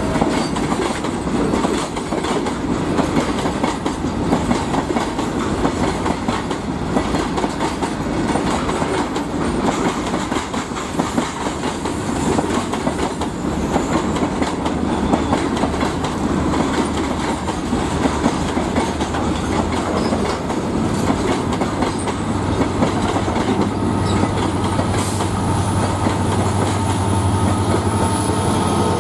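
Train wagons rolling past, their wheels clattering steadily over rail joints. In the last several seconds a steady low diesel locomotive engine drone builds up underneath.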